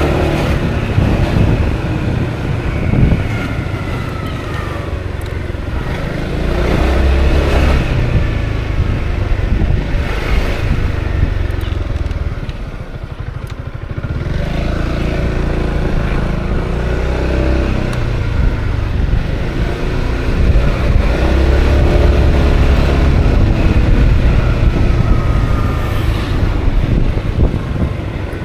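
Honda Forza 350 scooter's single-cylinder engine running under way, with heavy wind noise on the camera microphone. The engine and wind rumble drop for a couple of seconds near the middle, then pick up again.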